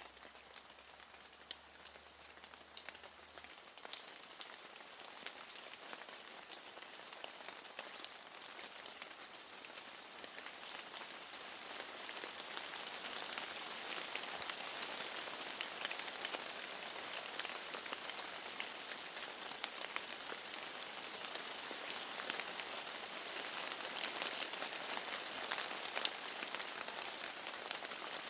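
Steady rain with many separate drops ticking through it. It grows louder about twelve seconds in.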